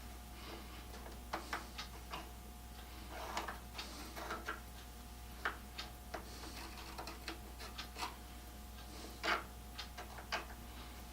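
Irregular light clicks and taps of metal caster hardware and screws being handled and set against a wooden tool box base, with a few louder knocks. A faint steady hum runs underneath.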